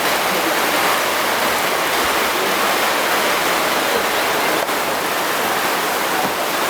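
Steady, loud rushing hiss, even and unbroken, with one faint click about four and a half seconds in.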